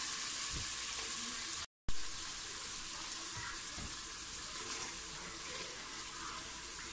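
Tomato-and-spice masala sizzling steadily in hot oil in a pressure cooker. The sound breaks off for a moment near two seconds in, and the sizzle then goes on more quietly while dry red lentils are tipped in from a glass bowl.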